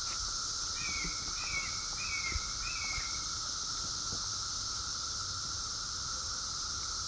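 Dense chorus of periodical cicadas, a steady unbroken drone with a lower hum and a higher hiss layered together. About a second in, a bird gives four short down-slurred notes in quick succession.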